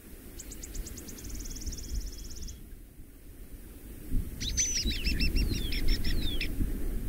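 Bird calls in a sound-designed wilderness ambience: a rapid high trill early on, then a string of chirps with falling notes about four and a half seconds in. Under them a low rumble swells about four seconds in.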